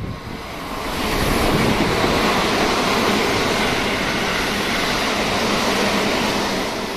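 Keisei AE-series Skyliner electric train running past close by at speed: the rush of wheels on rail and running gear swells about a second in, stays loud, and begins to fade near the end.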